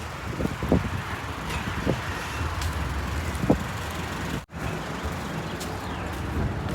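Steady motor-vehicle traffic noise, a continuous rumble with a few short low thumps, briefly cutting out about four and a half seconds in.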